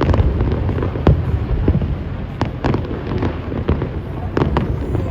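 Aerial fireworks exploding in quick succession, sharp bangs every fraction of a second over a continuous low rumble.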